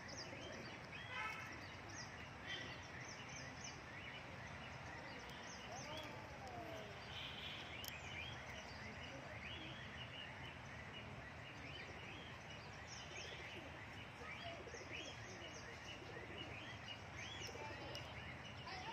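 Birds chirping and twittering: many short, overlapping high calls that go on without pause over a steady background hiss.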